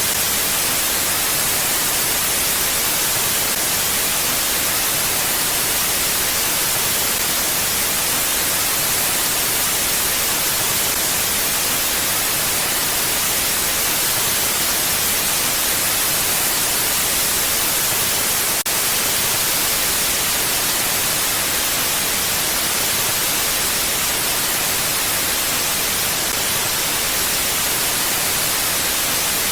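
Steady wind noise: an even, hissing rush with no gusts or swells, bright and close to white noise. A faint click with a brief dip comes about two-thirds of the way through.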